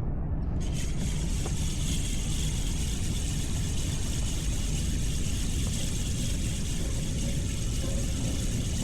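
Wind buffeting the microphone on open water: a steady low rumble, with a hiss joining in about a second in.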